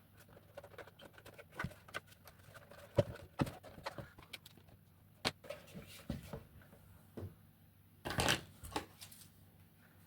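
Irregular light clicks and knocks of hard plastic and an LED light strip being handled as the strip is pushed into the back of a 3D-printed mask. A louder cluster of knocks comes about eight seconds in.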